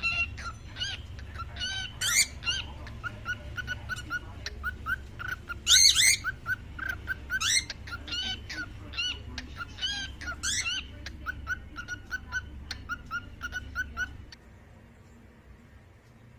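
Cockatiels chirping: a quick run of short repeated chirps with several louder rising calls mixed in, stopping about two seconds before the end.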